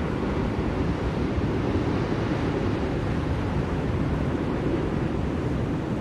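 Blizzard wind blowing steadily: an even, dense low-pitched whoosh with small swells and no gusts standing out.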